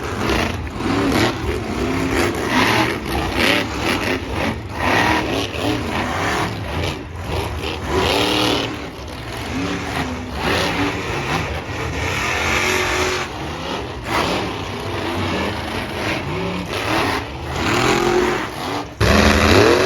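Monster truck engine revving hard, its pitch rising and falling again and again, with a sharp rev up to the loudest point just before the end.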